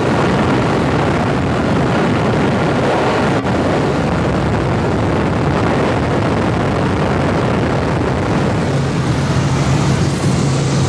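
Helicopter in flight, heard from aboard: the steady drone of its engine and rotor. About nine seconds in, a low hum in the drone grows stronger.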